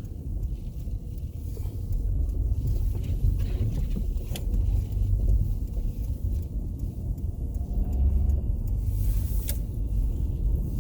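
A car driving, heard from inside the cabin: a steady low rumble of engine and road noise, with two faint brief clicks partway through.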